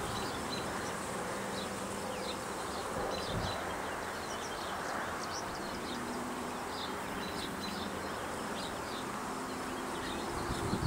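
Honey bees of a swarm buzzing, a steady hum of many wings. Faint short high chirps sound above it throughout.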